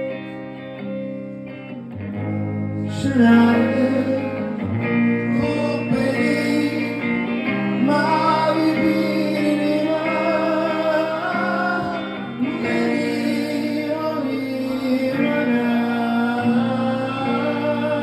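Live rock band playing, with guitar and a wordless vocal melody over sustained chords; the band comes in fuller about three seconds in.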